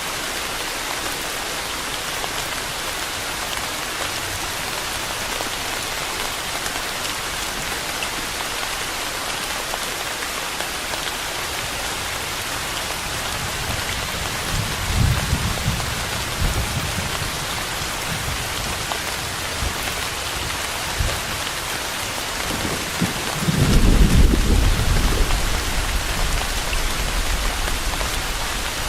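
Steady heavy rain hissing throughout, with a low roll of thunder about halfway through and a louder, longer rumble of thunder near the end.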